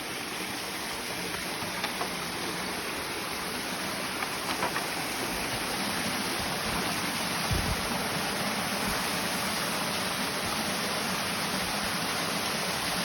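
Steady rush of running stream water, growing slightly louder, with a few faint knocks.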